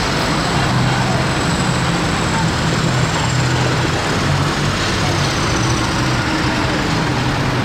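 Tractor engines running steadily, with a low engine note that shifts slightly in pitch.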